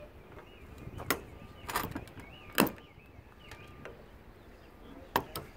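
Sharp knocks and clicks of hand tools working on a lawnmower being taken apart, about five separate strikes, the loudest a little past halfway.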